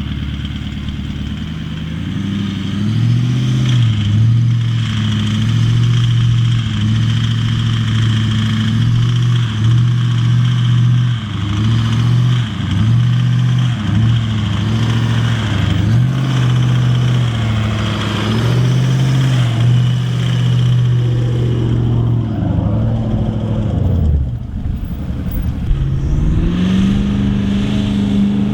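Large 4WD's engine working hard under load on a sand climb, holding steady revs with brief dips in pitch every second or two. Near the end the revs drop away, then rise again and hold higher.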